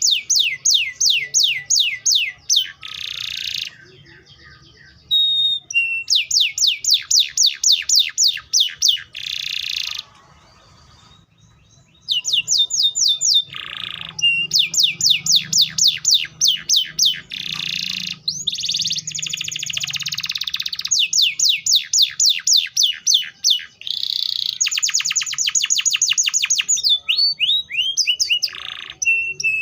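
Canary singing: phrases of rapid, repeated falling whistled notes, alternating with dense buzzy trills, with a couple of brief pauses.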